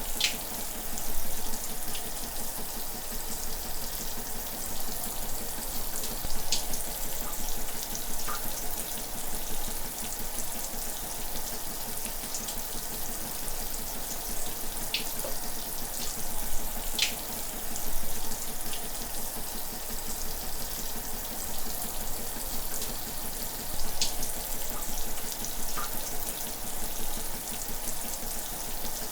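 Shower running: a steady spray of water hissing down, with now and then a faint splash or drip standing out for a moment.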